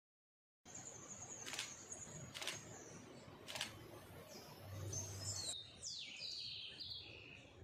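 Faint birdsong outdoors: a thin high note, then a run of stepped, falling chirps in the second half. Three sharp clicks come in the first half.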